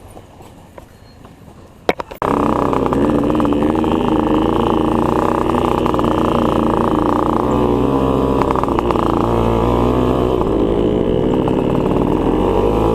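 Two-stroke motorcycle engine: after a couple of clicks about two seconds in, it comes on abruptly and runs loudly and steadily, with the revs rising and falling a little in the middle.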